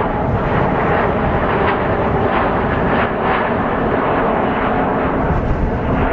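Jet airliner's engines running loud and steady, a dense rumble with a few faint steady tones riding on it.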